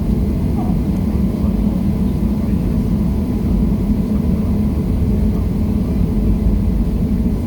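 Boeing 737-700's CFM56-7B jet engines and airframe heard from inside the cabin as a loud, steady low rumble, at departure power.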